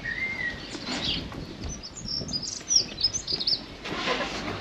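Small songbird chirping and twittering in a quick run of short high notes.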